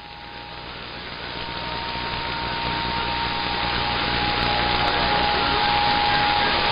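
CB radio receiver hissing with static between transmissions. The hiss grows louder over the first few seconds, with two faint steady whistle tones under it.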